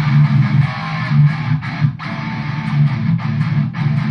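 Distorted electric guitar through a Line 6 Spider IV amp and overdrive pedal playing a chugging, palm-muted metal rhythm riff with short stops. The tone is very bassy, and with the amp's drive turned up it sounds a little muddy.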